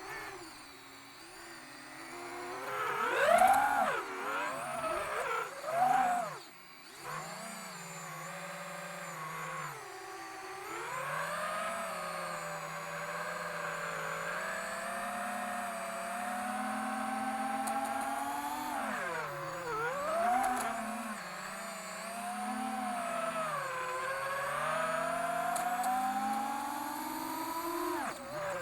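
Emax Eco II 2306 1900kv brushless motors of an FPV quadcopter whining, their pitch sliding up and down with the throttle, with loud surges a few seconds in and a sudden brief drop about six and a half seconds in. The owner suspects one motor is stumbling, maybe from ESC desync.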